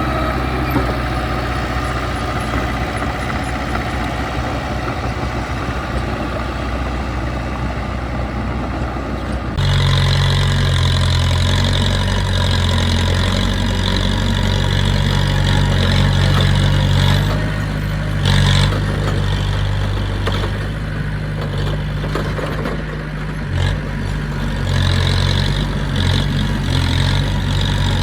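Heavy diesel engine of earthmoving equipment running steadily; about ten seconds in it becomes abruptly louder, with a stronger low hum and a high whine.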